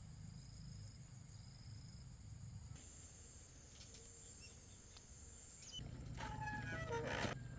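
Rural outdoor ambience: a steady high-pitched insect drone with a few faint bird chirps, and a louder noisy burst with short chirps about six seconds in.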